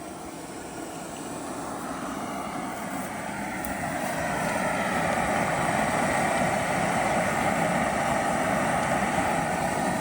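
Portable camping gas stove burner running steadily with a rushing noise under a cooking pot, growing louder over the first few seconds and then holding level.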